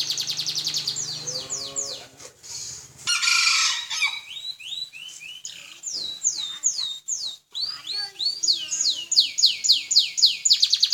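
Domestic canary singing a long, unbroken song: fast runs of repeated downward-sweeping whistled notes and trills. A loud, harsh rolling passage comes about three seconds in.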